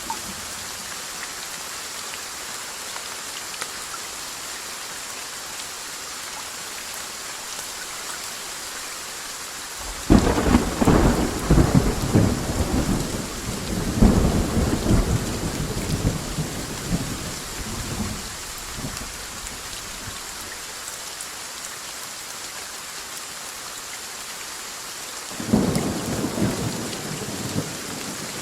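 Steady rain with thunder. A sudden close crack and rumble comes about a third of the way in, rolls and fades over several seconds, and a second, shorter rumble follows near the end.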